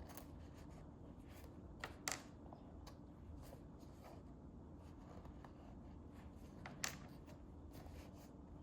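Very quiet room with a low steady hum and a few light clicks or taps from handling small craft pieces: two close together about two seconds in and one about seven seconds in.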